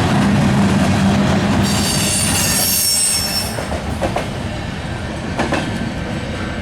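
Freight train cars rolling past with a steady low rumble. About two seconds in, the wheels give a high, multi-toned squeal for a second or so; after that the rumble is quieter, with a few sharp clicks of wheels over rail joints.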